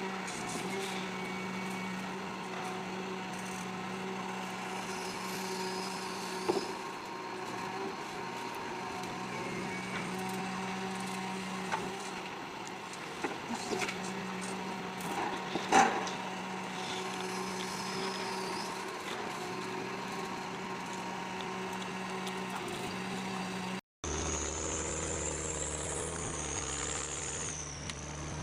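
Engine of heavy forestry machinery running steadily, with a few sharp knocks of wood. Near the end the sound cuts to another machine running with a high, wavering whine.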